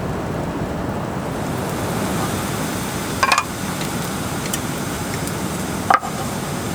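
Steady rushing of water, with a short clatter about three seconds in and a sharp knock near the end.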